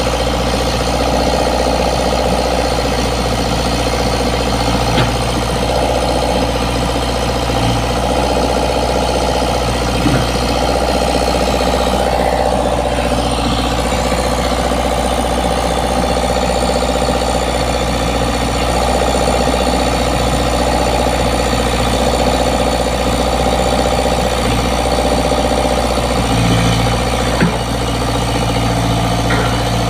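Komatsu PC75 excavator's diesel engine idling steadily, with a few short knocks over it.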